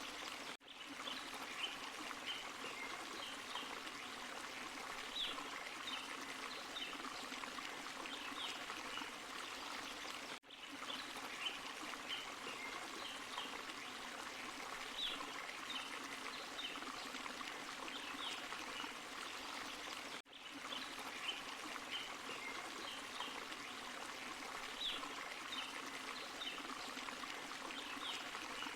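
Forest stream and small waterfall flowing steadily, with many short bright splashes and trickles over the rushing. It cuts out briefly about every ten seconds, as a short recording loops.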